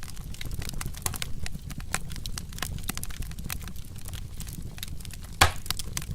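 Wood fire crackling: irregular sharp pops and snaps over the low steady rumble of the flames, with one loud pop about five and a half seconds in.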